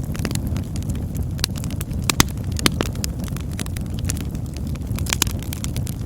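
Campfire burning: a steady low rumble of flames with scattered sharp crackles and pops of burning wood, the loudest a little over two seconds in.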